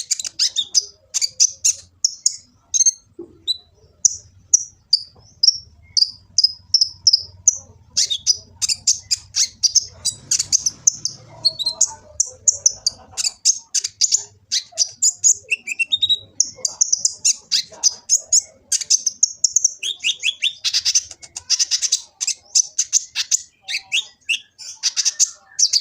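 Sunbird (kolibri ninja) singing a long, fast, unbroken run of high, sharp chirps and trilled notes, with only brief gaps between phrases.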